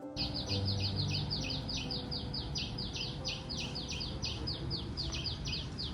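A bird calling in a rapid, even series of short falling chirps, about five a second.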